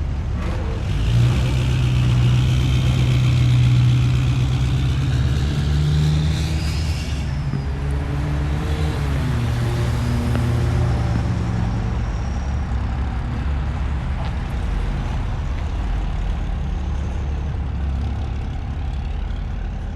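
Road traffic: a vehicle's engine hum grows loud about a second in and eases after about seven seconds, followed by an engine note that rises and falls, over steady road noise.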